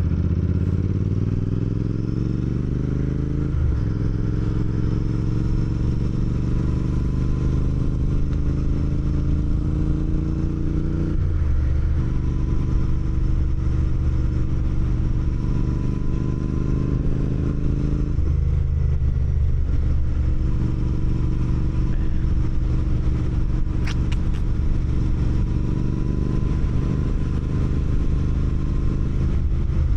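Motorcycle engine pulling away and accelerating through the gears. Its pitch climbs, then drops at each of three upshifts, about 3.5, 11 and 18 seconds in, before the bike settles into a steady cruise. A single sharp click comes near the end.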